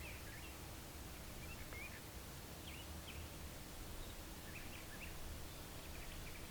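Small birds chirping in short, scattered calls over a steady low outdoor background hiss.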